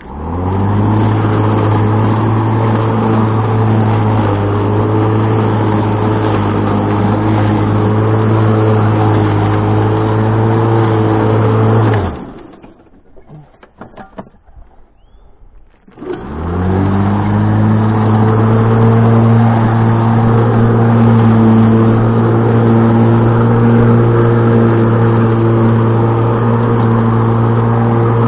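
Electric motor of a corded yard tool switched on, spinning up within about a second to a steady running pitch. It is switched off about twelve seconds in and winds down, then a few seconds later it spins up again and runs steadily.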